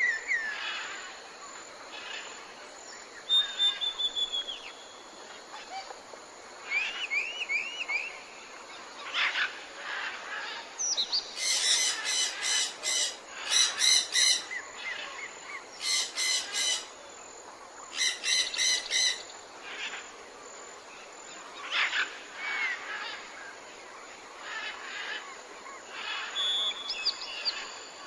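Several birds calling in short chirps and whistled glides over a steady natural background hiss. From about 11 to 19 seconds in come four bursts of a rapid rattling call.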